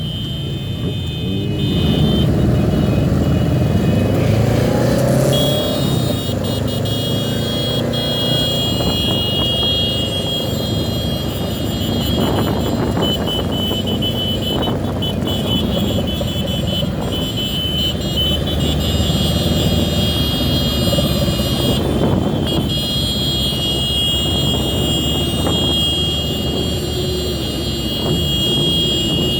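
Motorcycle engines and road noise from a large group of motorcycles riding through traffic, with an engine revving up a few seconds in.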